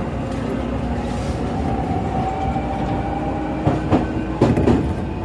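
Keio Inokashira Line commuter train running, heard from inside the car: a steady rumble with a faint steady whine, and two pairs of sharp clacks as the wheels pass over rail joints about four seconds in.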